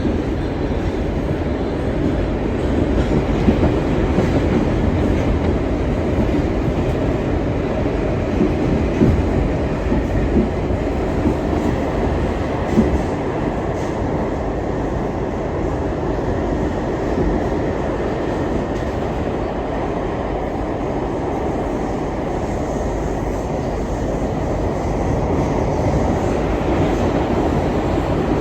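R62 subway car running at speed, heard from aboard: a steady rumble of wheels and running gear, with a few sharp knocks and clatter from rail joints and track work.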